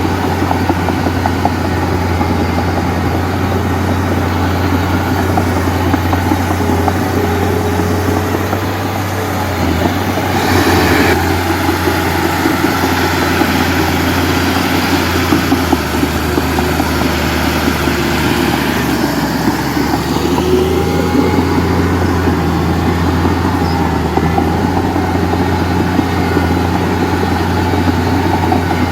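Heavy diesel machinery running steadily with a deep, even engine hum, swelling briefly louder about ten seconds in.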